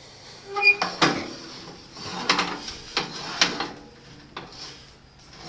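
A few metal clunks and scraping squeaks from a homemade tractor's geared-down steering, a snowblower auger transmission, being worked by hand.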